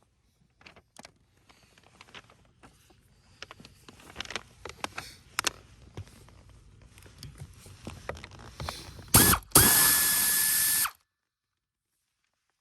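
Hand tools and parts clicking and rattling, as with a ratchet or fasteners being worked. Near the end a power tool's motor spins up, runs steadily at one pitch for about a second and a half, and stops abruptly.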